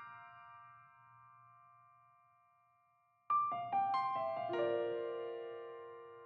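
Background piano music: the notes of one phrase fade out, then about three seconds in a new phrase of about six notes is played and left to ring.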